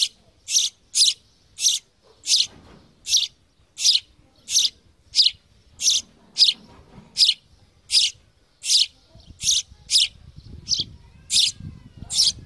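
Sparrow chirping, one short high call after another in an even rhythm of about two a second.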